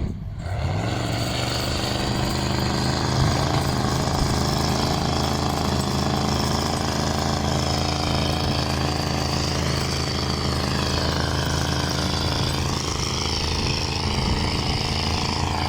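Old concrete truck's diesel engine picks up speed in the first second, then runs steadily at a raised speed with a hard, rattly note.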